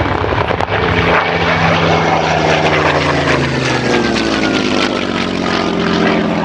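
Propeller-driven Second World War fighter flying past, its piston engine loud and steady, the pitch falling as it passes.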